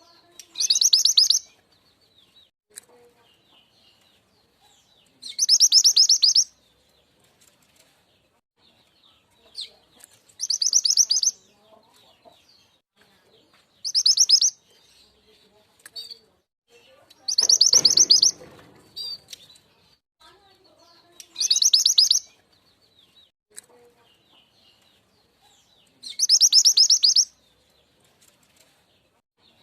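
Looped lure call of the mantenan gunung (truntung weru): a fast, high, buzzy trill about a second long, repeated seven times at intervals of four to five seconds, with faint short chirps in between.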